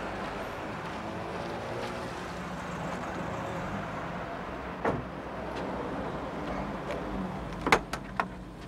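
Car engine running as a car drives along the street. There is a single knock about five seconds in and a few sharp knocks close together near the end.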